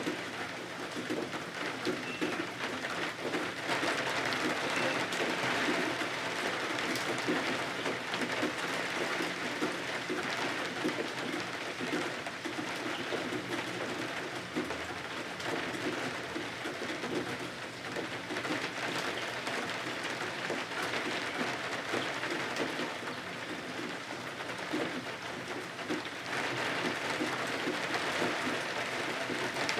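Steady rain pattering, a dense even hiss of drops that swells and eases slightly.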